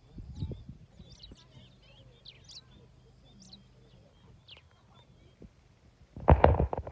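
Birds chirping in short, quick falling calls, over a low steady hum that fades after about four seconds. A brief loud low burst of noise comes near the end.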